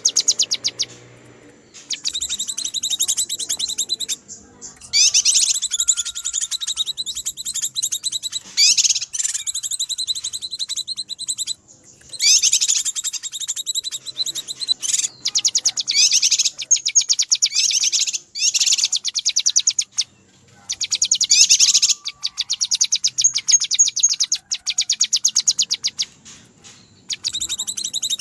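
Cucak kinoi lure call: agitated, rapid high-pitched chattering in bursts of one to three seconds, broken by short pauses. It is the noisy 'ribut' alarm-type calling used to lure wild birds of the same kind.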